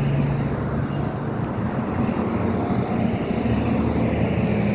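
A car driving: steady engine hum with a low tone and road noise.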